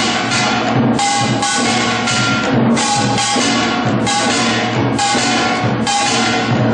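Samulnori percussion: drums and gongs played together in a dense, loud rhythm, with a bright ringing metal stroke about once a second.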